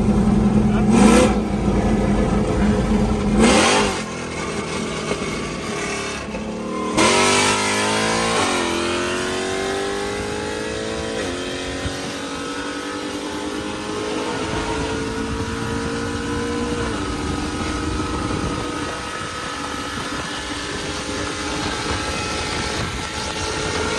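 BMW 335is turbocharged inline-six heard from inside the cabin, pulling hard and climbing through the gears of its dual-clutch gearbox with quick upshifts, then settling to a steady cruise. Three short sharp bursts of noise come in the first few seconds.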